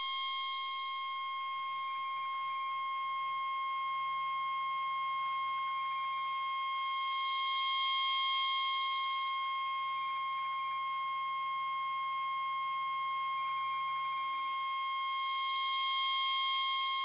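Electronic synthesizer drone: a steady high-pitched tone with upper overtones that slowly sweep up and back down, twice.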